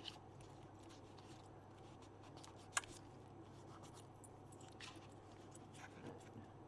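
Faint handling of paper pieces, with small rustles and light taps and one sharp click a little under three seconds in, over a low steady room hum.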